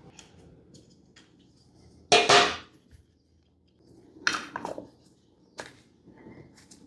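Metal clanks, as of tools or parts being handled: a loud clank with a brief ring about two seconds in, another clatter about four seconds in, then a sharp click.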